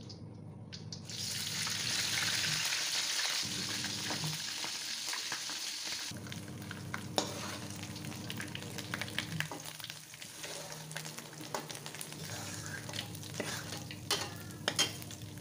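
Chopped ingredient frying in hot oil in a wok. The sizzling starts about a second in and is loudest for the next few seconds, then settles lower. Through the rest a spatula scrapes and clicks against the wok as it stirs.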